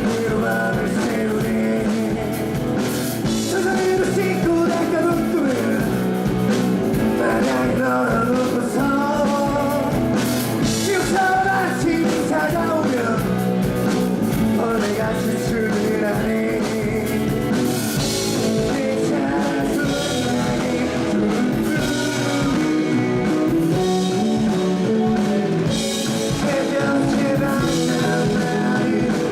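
Rock band playing live, with a singer over the band and a steady drum beat.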